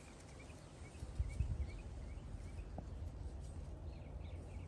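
Small birds chirping, with short repeated chirps scattered throughout, over a low rumble.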